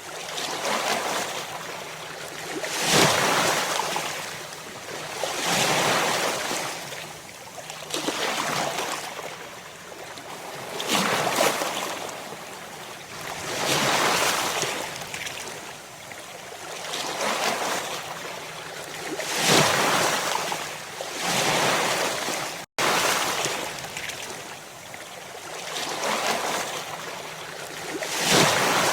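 Ocean surf: waves breaking one after another, each surge rising and falling about every two and a half to three seconds over a steady wash of water. A momentary dropout cuts the sound about two-thirds of the way through.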